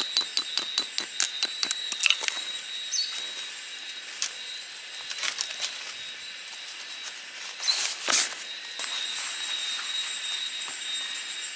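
A quick, even run of sharp metallic taps, about five a second, stops about two seconds in. Then come quieter handling and rustling noises, with a louder knock near eight seconds, over a faint steady high tone.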